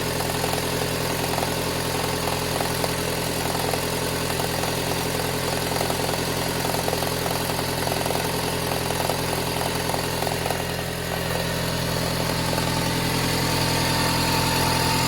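Toyota Harrier's 5S-FE four-cylinder engine running at a cold fast idle with a fast, steady crackling from the engine. The crackle shows only while the engine is cold and fades as it warms; its cause is unknown to the owner and the mechanics he asked. The sound gets a little louder near the end.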